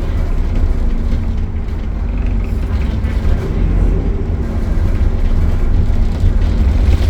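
Optare Solo single-deck bus running, with its engine and cooling fan making a steady low rumble and a faint steady hum.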